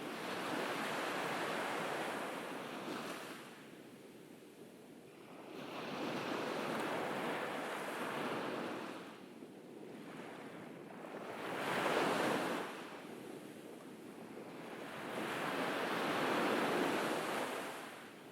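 Ocean waves washing onto a beach, four swells in a row, each rising and falling away over a few seconds, the third one sharper and loudest.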